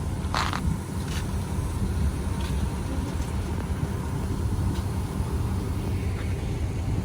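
A vehicle engine running steadily with a low rumble, with a short hiss about half a second in.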